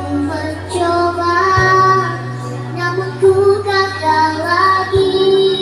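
A child singing a melody with long held notes over a backing track with a steady bass line.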